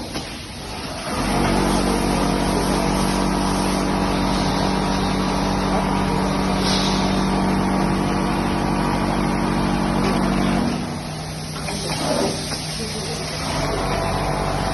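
Pulley-driven quilt sewing machine running at a steady pitch for about nine seconds, then stopping; a quieter steady hum starts again near the end.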